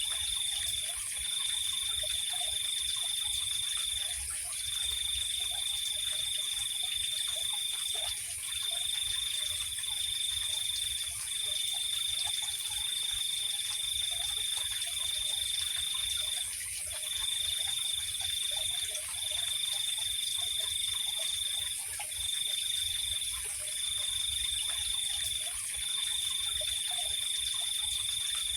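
Night chorus of insects: a high trill that keeps breaking off for a moment every few seconds, over a constant higher-pitched insect drone, with faint scattered frog calls underneath.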